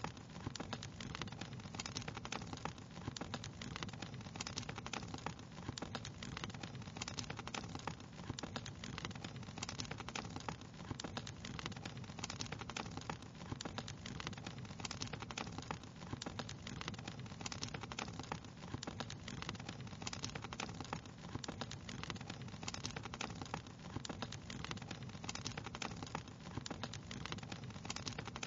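Wood fire crackling steadily, a dense run of small irregular pops and snaps over a constant low rumble.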